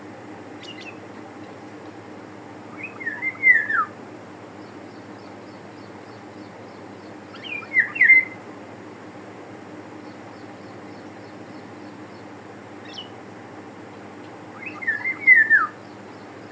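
Eurasian golden oriole singing: three short fluting whistled phrases a few seconds apart, each sliding and dropping in pitch at the end. Faint high chirps of other small birds and a steady low hum run underneath.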